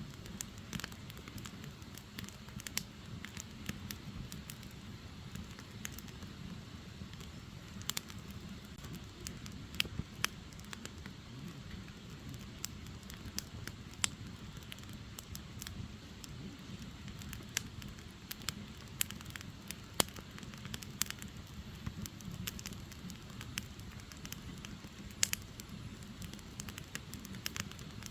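Firewood burning: a steady low rush of flames with irregular sharp crackles and pops, a few of them louder than the rest.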